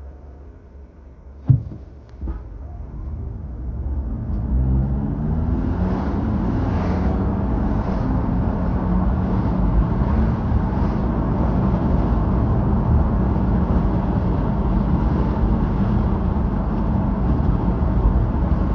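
A sharp knock about a second and a half in, then a car pulls away. The engine note rises as it speeds up and settles into a steady engine and road rumble.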